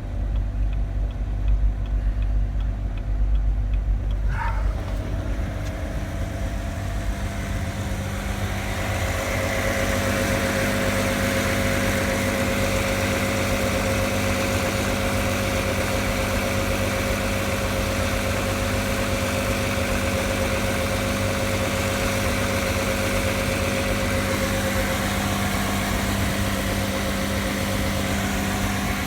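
2016 Camaro's 3.6-litre V6 running unattended, its speed hunting with no foot on the pedal. It is uneven and rumbling for the first few seconds, then about eight seconds in it grows a little louder and settles into a steady hum held at raised revs, the abnormal surging idle the owner calls dangerous.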